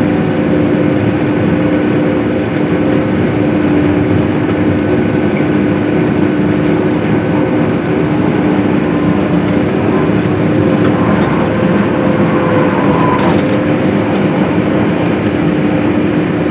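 Case IH self-propelled swather running steadily while cutting hay: a constant loud engine and machinery drone with a steady hum.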